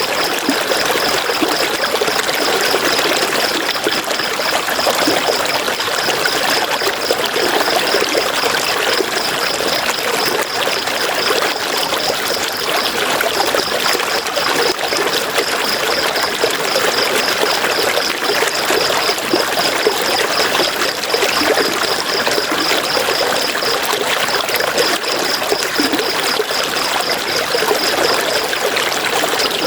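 River water flowing steadily, an even rushing and trickling. Behind it a high-pitched rapid pulsing runs on, breaking off briefly a few times.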